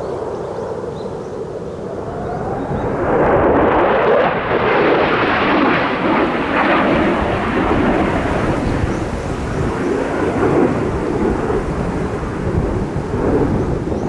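Jet noise from an F-15's twin turbofan engines as the fighter passes. It builds over the first few seconds, peaks loudly, then trails off into a long rumble.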